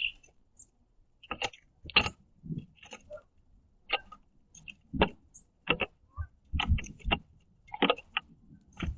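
Irregular sharp taps and clicks of black-capped chickadees landing and pecking at sunflower seed on a wooden platform feeder, a few each second, with a few short high notes between them.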